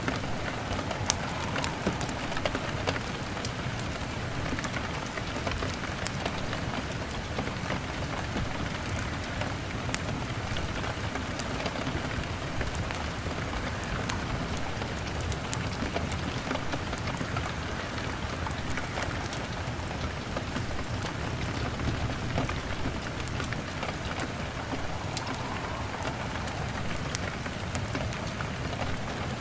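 Rain falling on window glass, a steady hiss with many scattered sharp ticks, while a log fire crackles.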